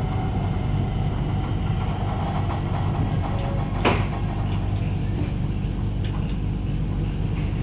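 Low steady rumble of a Flexity tram heard from inside, with one sharp knock about four seconds in.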